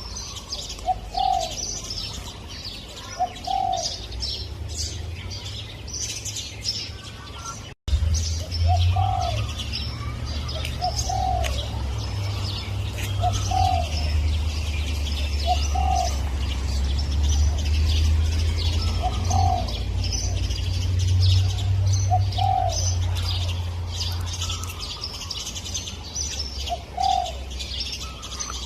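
Spotted dove cooing, one short coo about every two seconds, over steady high chirping from small birds. A low rumble runs through the middle, and the sound cuts out for an instant near 8 seconds.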